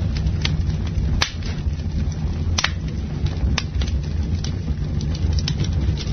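Campfire burning: a steady low rumble of flame with wood crackling and popping throughout, and sharper snaps about a second in, midway and near the middle-late part.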